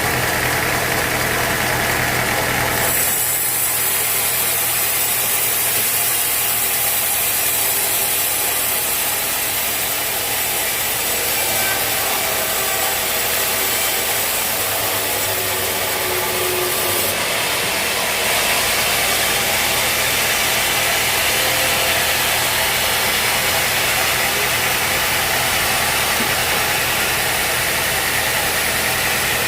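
Sawmill machinery running with a loud, steady engine-like noise. The sound changes abruptly about three seconds in and again a little past halfway.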